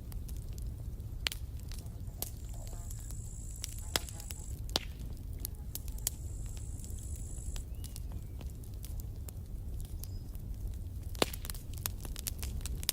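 Campfire crackling: sharp pops scattered over a steady low rumble, with a quicker run of pops near the end. Twice, a thin high hiss lasts a couple of seconds.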